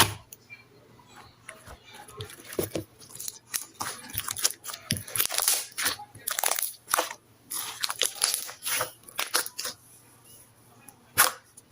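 Jelly-textured slime being squeezed and poked by hand, giving irregular crackling clicks and short wet squishes.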